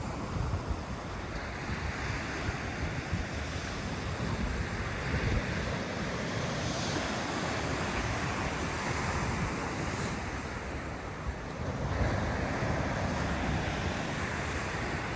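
Ocean surf washing onto the beach, a continuous roar that swells twice, with wind buffeting the microphone.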